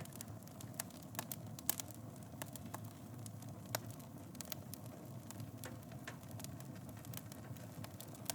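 Wood fire burning in a fireplace: a steady low rumble of flames with irregular sharp crackles and pops from the burning wood, the sharpest about two and four seconds in.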